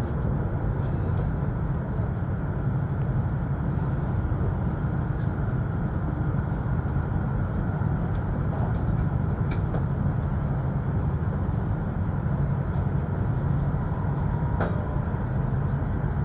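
Steady running noise of an E5 series Shinkansen at speed, heard from inside a passenger car: an even low rumble with a few faint clicks.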